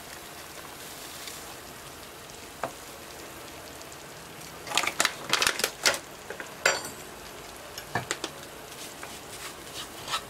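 Breadcrumbs and sugar frying in a pan, with a steady soft sizzle. About halfway through, a utensil stirring the crumbs scrapes and knocks against the pan in a quick cluster of strokes, with a few more strokes near the end.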